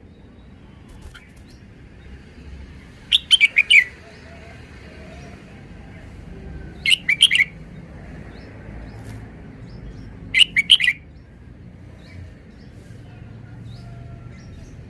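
Red-whiskered bulbul singing: three short phrases of a few quick notes each, about three to four seconds apart.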